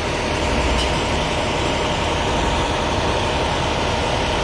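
Large vehicle engine idling steadily, a constant low hum under an even hiss.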